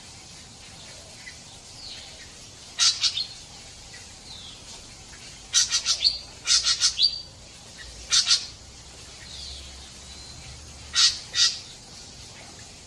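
Songbirds calling: about five loud bursts of quick, sharp chips a second or two apart, over fainter chirping from other birds and a steady background hiss.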